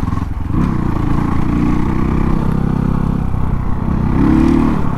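Dirt bike engine running while being ridden, the pitch climbing as it accelerates about half a second in and again near the end.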